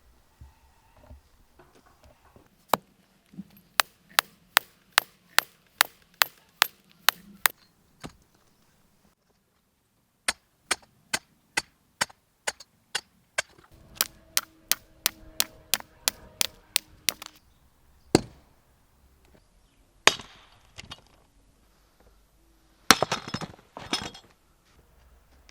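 Firewood being struck: runs of sharp, evenly spaced wooden knocks, about two or three a second, then a few scattered heavier knocks and a short burst of clattering wood near the end.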